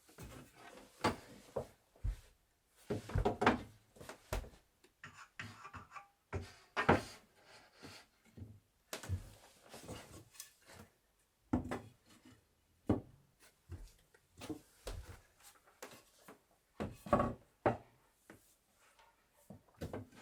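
Wooden bed parts being handled and fitted together: irregular knocks and clunks of wood on wood, with quieter handling noise between them.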